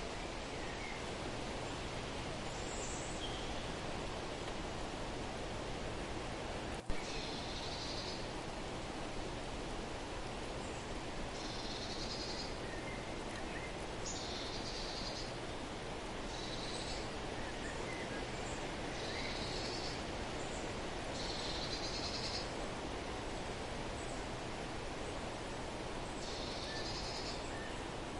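A small songbird repeating short, high, trilled phrases every two to three seconds over a steady outdoor hiss. A single sharp click comes about seven seconds in.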